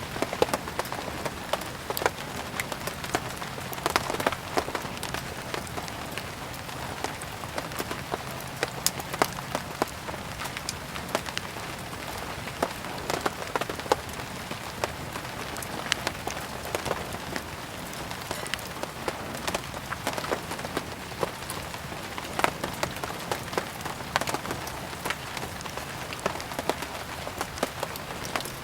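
Steady rain falling, mixed with frequent, irregular sharp crackles and pops from burning firewood.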